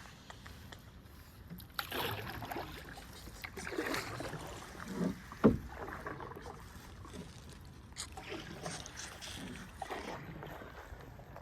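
Canoe paddles stroking through the water, a swish about every two seconds, with one sharp knock about five and a half seconds in.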